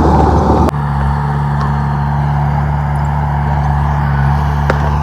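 Diesel engine of a Komatsu D31P bulldozer running steadily. Just under a second in there is a sharp click and the sound abruptly thins to a steadier low hum.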